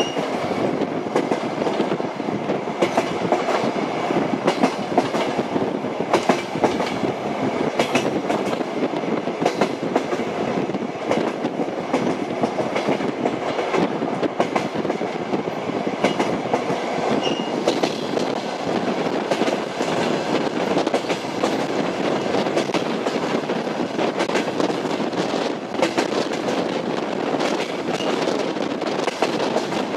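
Train wheels rolling over rails with a steady rumble and an uneven clickety-clack of knocks at the rail joints.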